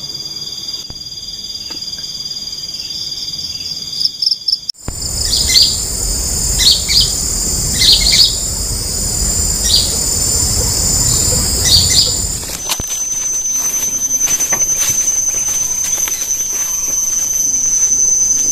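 Forest insects droning with steady high-pitched tones, changing abruptly twice. In the middle section a bird calls in short repeated chirps over a low rumble.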